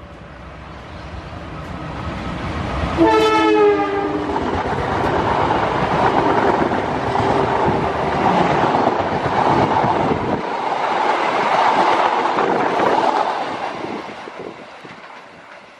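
Diesel locomotive horn sounds one short blast about three seconds in, dropping slightly in pitch, as a passenger train approaches. The train then passes close by, its wheels running loudly on the rails as the coaches go past, and the sound fades as the end of the train pulls away.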